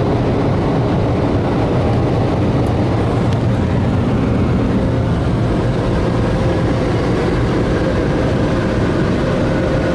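Car wash dryer blowers blasting air over the car, heard from inside the cabin as a loud, steady rush of air with a faint hum.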